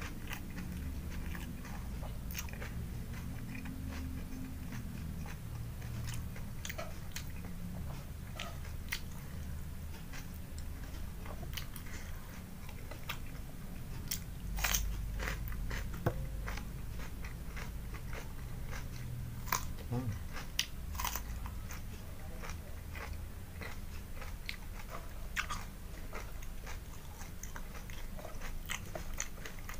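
Close-up eating sounds: a person chewing and crunching mouthfuls of rice and crisp raw vegetables. A run of sharper crunches falls around the middle.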